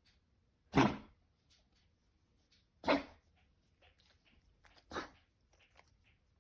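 Dog coughing from kennel cough: three harsh single coughs about two seconds apart, the last one softer.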